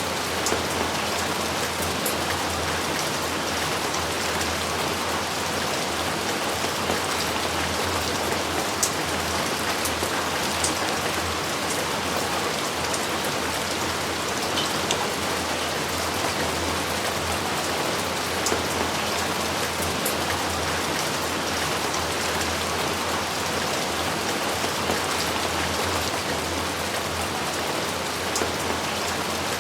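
Steady rain falling, a dense even hiss with scattered sharper drop hits.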